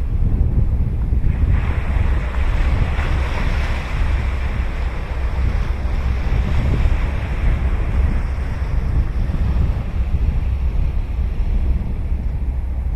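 Ocean surf breaking on the beach: a wave washes in about a second and a half in, hisses loudest a couple of seconds later, then fades away. Wind rumbles steadily on the microphone throughout.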